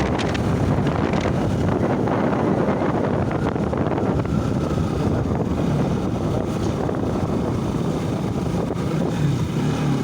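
Motorcycle being ridden, its engine running under steady wind buffeting the microphone.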